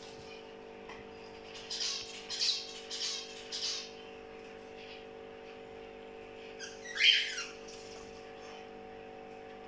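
Bird chirps: a run of about four short, high chirps between two and four seconds in, then one louder chirp about seven seconds in, over a steady low hum.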